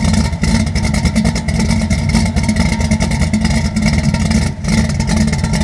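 Engine of a 1933 Chevrolet running loudly through its exhaust, a steady, fast-pulsing deep rumble with a brief dip about four and a half seconds in.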